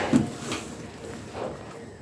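A few short knocks and handling sounds from kitchen work, the loudest right at the start, with softer ones about half a second and a second and a half in.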